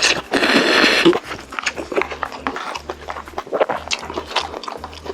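Close-miked eating of chicken: a loud noisy burst about a second long near the start, then a run of short, sharp, wet chewing clicks.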